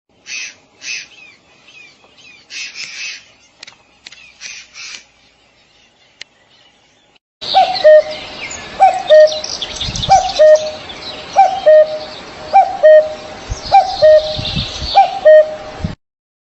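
Birds calling: short high chirps in the first few seconds, then a lower call repeated about once a second with chirping above it. A few low thumps come in the second half.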